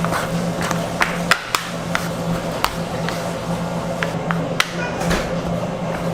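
Sharp, irregular knocks and taps of hand food-preparation work, about eight to ten over a few seconds, over a steady low machine hum.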